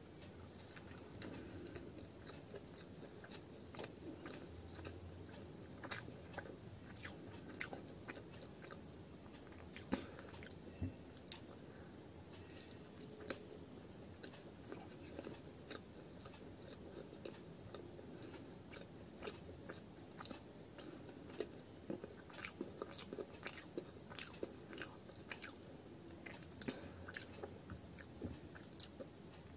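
Close-up mouth sounds of chewing and biting fried radish-stuffed kachori (muli ki kachori), with frequent small crunchy clicks that grow busier in the last third.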